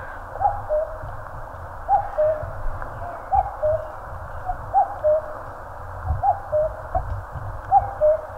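Common cuckoo calling its two-note "cuck-oo", a higher note dropping to a lower one, repeated evenly about every second and a half, six times.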